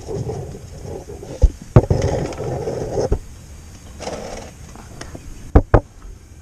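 Oil filter being worked loose and unscrewed by hand from an ATV engine: patches of scraping and rubbing, with several sharp knocks, two of them close together near the end.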